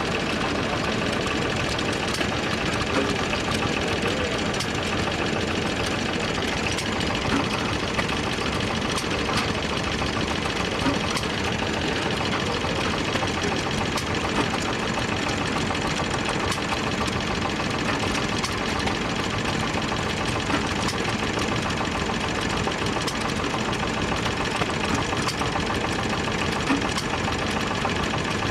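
Vintage engines running steadily, a continuous mechanical clatter with fine ticks and no change in speed.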